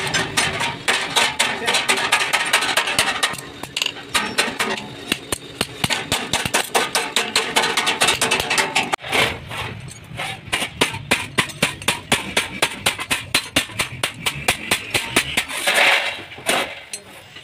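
Hammer striking sheet metal in quick repeated blows, settling into about four blows a second in the second half.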